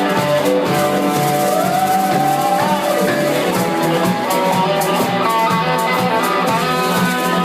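Band music with guitars over a steady drum beat, and a lead line that slides up and then down in pitch a couple of seconds in.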